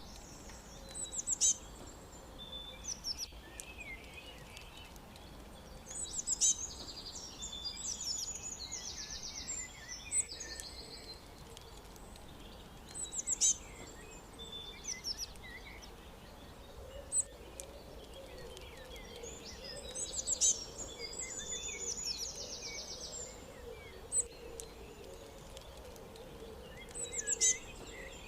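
Songbirds singing: a short, loud, high phrase recurs about every seven seconds, twice followed by a rapid trill lasting a couple of seconds, with softer chirps between, over a steady background hiss.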